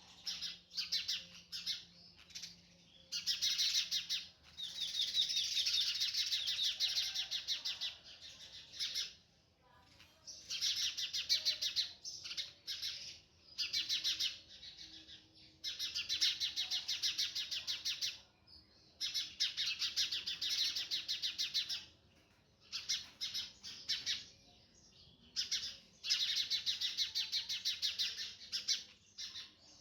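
Small bird singing: repeated bursts of very rapid, high chirping trills, each lasting one to three seconds, with short pauses between them.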